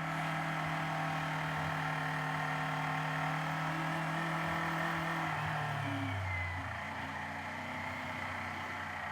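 Kawasaki Z500 parallel-twin engine running at steady revs while riding, over road and wind noise. A little over five seconds in, the engine note drops as the revs fall, then runs on lower.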